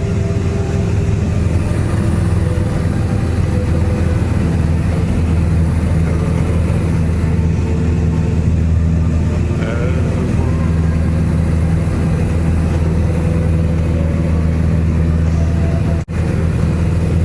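Cessna light aircraft's single piston engine and propeller droning steadily in cruise, heard from inside the cabin. The sound drops out for a split second near the end.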